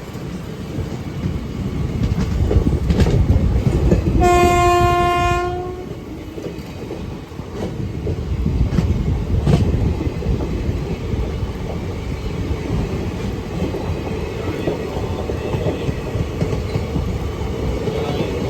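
Express train running on the rails with a steady rumble and a few wheel clicks over rail joints, and one horn blast of about a second and a half, about four seconds in.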